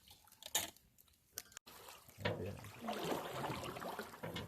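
Lake water trickling and splashing around a canoe paddle, starting after a sudden cut about a second and a half in; before it, only a few faint clicks.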